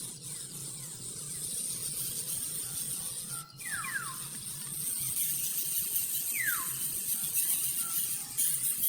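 A steady, high insect buzz, like crickets or cicadas, with short whistled bird notes that fall in pitch: a pair about three and a half seconds in, another about six seconds in, and one more at the very end.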